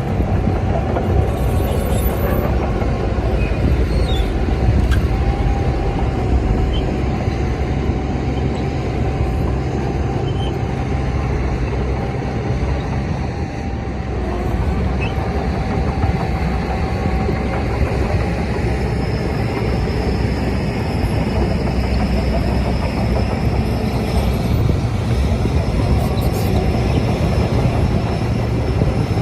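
Shantui DH17C crawler bulldozer working, its diesel engine running steadily with a deep rumble. A thin squeal from the steel tracks comes and goes.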